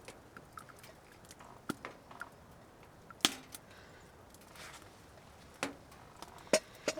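A few sharp knocks and clicks of things being handled. The loudest comes about three seconds in, and two more come close together near the end.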